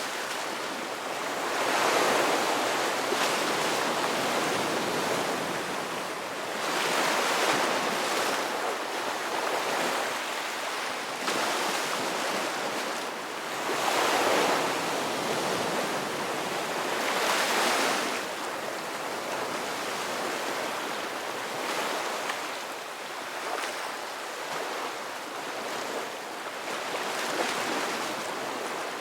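Ocean surf: waves breaking and washing in, the hiss swelling and ebbing every few seconds. The biggest surges come in the first twenty seconds, and the later ones are gentler.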